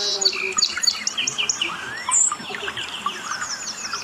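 Several birds chirping and calling at once, a dense run of short, quick chirps and whistles overlapping one another.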